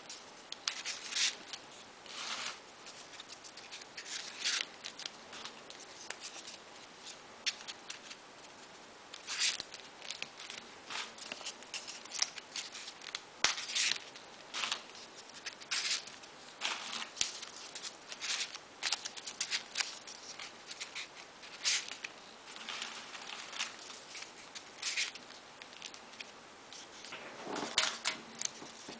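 Folded paper origami pieces being handled and slotted into a modular paper model: brief, irregular crisp rustles and scrapes of paper, a second or so apart.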